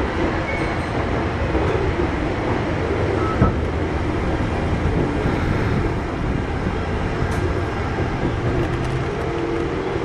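Kintetsu 1021 series electric train with Hitachi GTO inverter control, running as heard from inside the car: a steady rumble of wheels and running gear. A single sharp knock comes about three and a half seconds in.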